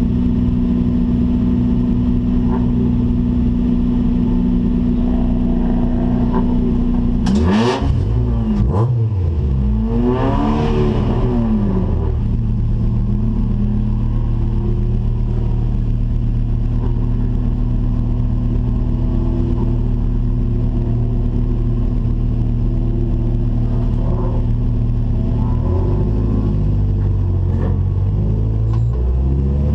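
Acura Integra Type R race car's four-cylinder VTEC engine running under load. About eight seconds in, the revs rise and fall several times in quick succession, as in gear changes, before it settles into steady running again. The pitch shifts once more near the end.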